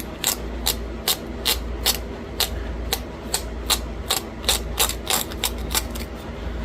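Pressure flaking a small bird point of Buffalo River chert: a run of sharp clicks, about two to three a second, each a tiny flake snapping off the edge under the flaker.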